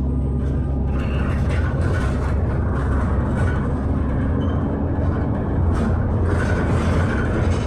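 Interior of a moving double-decker bus: steady engine and road rumble whose low tones shift as the bus changes speed, with light rattles and clicks from the fittings.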